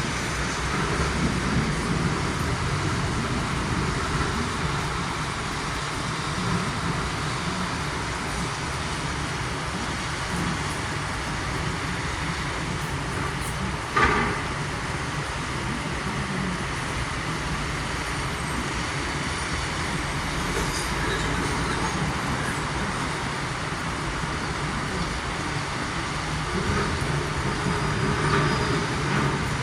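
Steady rumble of road traffic, with one short sharp click about halfway through.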